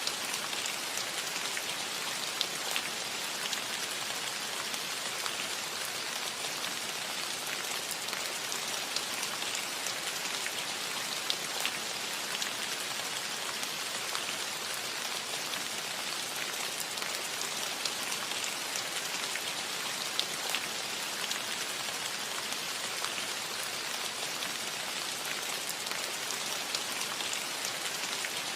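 Steady rain falling on a roof: an even hiss with many small sharp ticks of individual drops.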